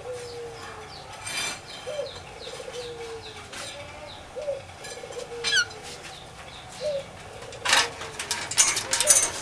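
Birds calling: a low whistled note that slides downward repeats about once a second, with short high chirps above it. Near the end come several bursts of fluttering, rustling noise such as wing flaps.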